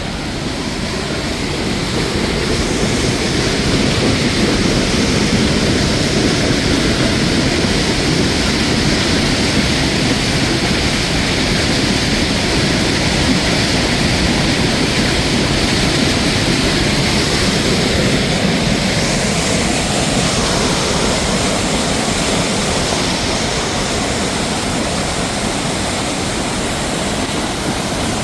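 Waterfall rushing steadily, growing a little louder over the first few seconds and then holding even.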